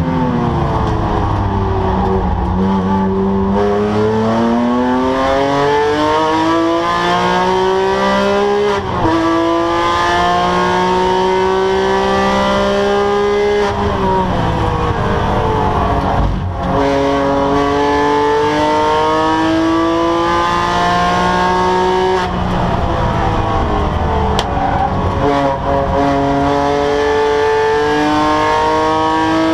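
Porsche 997 GT3's flat-six engine at full throttle on a race lap. Its pitch climbs through the revs with sudden drops at upshifts about 9 and 22 seconds in, and it falls steeply for a couple of seconds in the middle under braking before pulling hard again.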